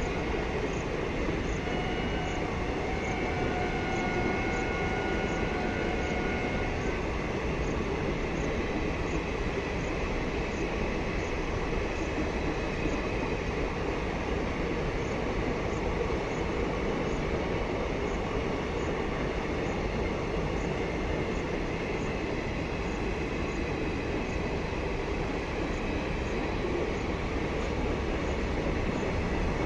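Train of rail coaches running by with a steady rolling rumble of wheels on track. For the first several seconds a faint thin wheel squeal sits over it.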